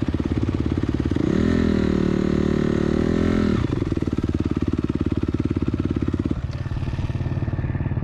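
Dirt bike engine idling with a fast, even putter. About a second in, a higher held note joins it for a couple of seconds.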